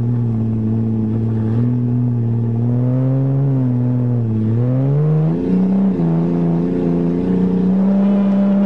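1982 Toyota Cressida's engine running under throttle; its pitch sags a little near four seconds in, then climbs about five seconds in and holds at the higher revs.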